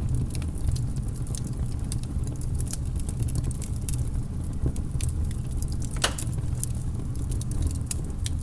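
Wood fire crackling in a fireplace: a steady low rumble of burning with frequent sharp small pops, one louder pop about six seconds in.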